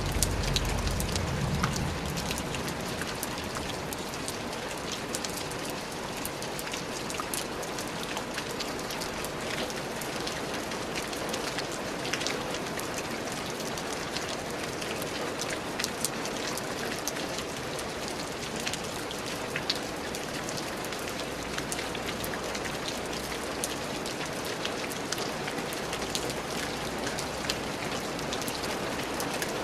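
Steady rain: a dense, even hiss with many separate drop hits ticking through it. A low rumble underneath fades out in the first two seconds.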